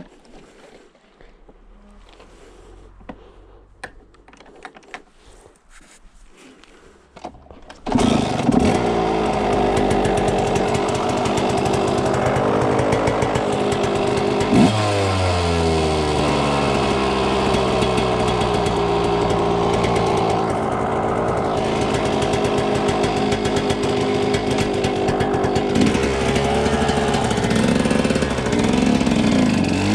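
Suzuki RM125's single-cylinder two-stroke dirt bike engine, which starts suddenly about a quarter of the way in after a quieter stretch of scattered clicks. It runs steadily, with one sharp throttle blip rising and falling in pitch about halfway through and more uneven revving near the end.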